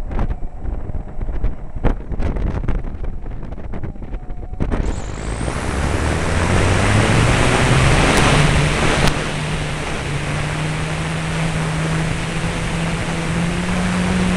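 Scattered knocks at first. Then, about four and a half seconds in, an F3A radio-controlled aerobatic model aeroplane's motor comes in with a sudden rush of air and runs on steadily, its tone climbing gradually in pitch.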